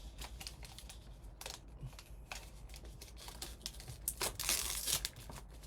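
Packaging being torn open by hand on a box of trading cards: scattered small crinkles and clicks, then a longer rip about four seconds in.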